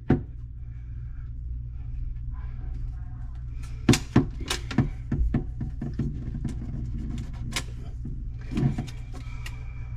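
Handling noise inside a sink cabinet: a few sharp clicks and knocks, bunched about four to five and a half seconds in with a couple more later, over a steady low hum.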